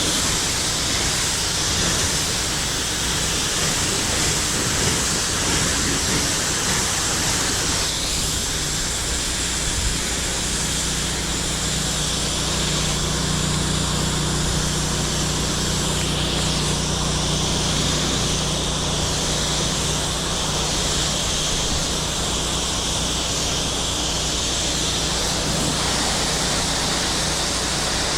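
Pressure washer running steadily: the high hiss of the water jet spraying a surface over the low hum of the machine's motor and pump.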